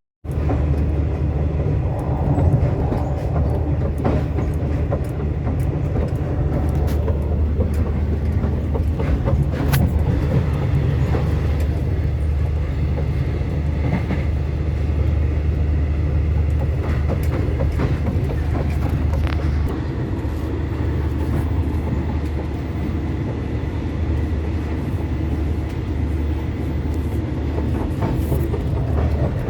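Sleeper train running steadily: a continuous low rumble of the moving carriage, with a few faint clicks and knocks scattered through.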